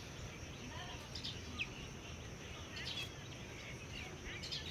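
Outdoor ambience of birds chirping in short, quick calls scattered throughout, over a steady low background rumble.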